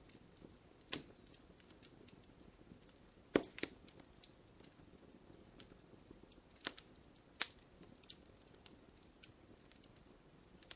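Wood fire crackling in a fireplace: faint, scattered pops and snaps over a low hiss, with a handful of sharper cracks standing out.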